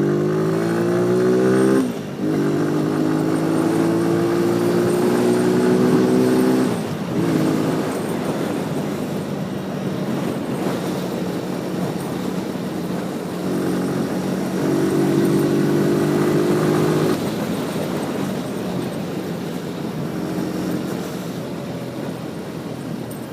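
Motorcycle engine accelerating and shifting up through the gears: its pitch climbs and drops back at each change, about 2 and 7 seconds in, then it runs on at a steadier pitch with the throttle opening and closing, easing off near the end.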